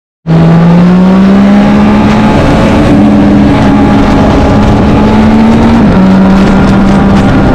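Racing motorcycle engine under hard acceleration, very loud. Its pitch climbs steadily, drops once at an upshift about six seconds in, then climbs again.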